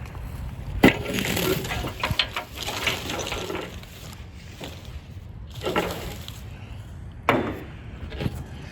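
Several sharp knocks and cracks with some rustling over a steady low rumble.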